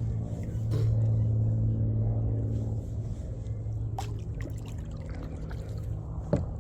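A steady low, engine-like hum that swells about a second in and eases off after a couple of seconds, with a few sharp knocks over it.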